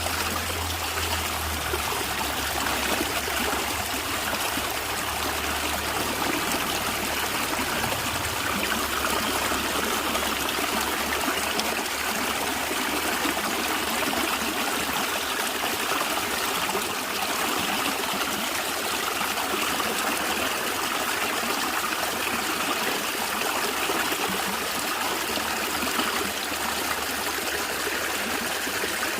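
Natural stream water flowing and gurgling steadily.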